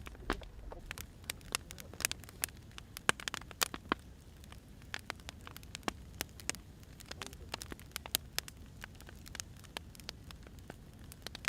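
Firewood burning, crackling with irregular sharp pops and snaps over a low, steady rumble.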